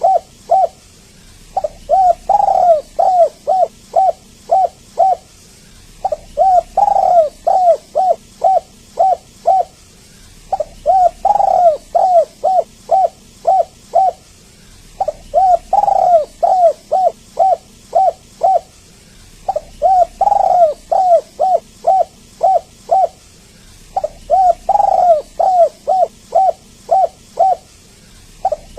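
Spotted dove cooing in repeated phrases of about eight to ten quick coos, the first one or two the loudest and longest, each phrase coming round at the same even spacing of roughly four and a half seconds.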